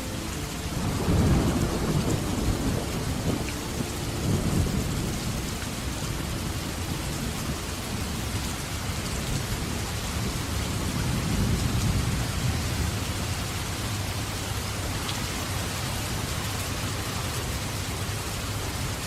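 Steady rain with low rolls of thunder, the loudest about a second in, again around four seconds and around eleven seconds.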